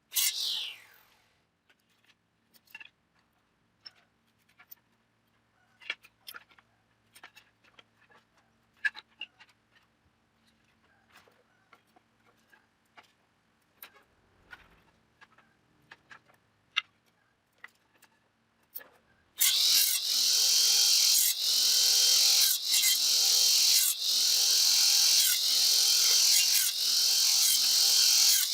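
Light scattered taps and clicks of work on wood, then about 19 seconds in a loud rasping tool starts on the wood and runs in regular strokes, about one a second.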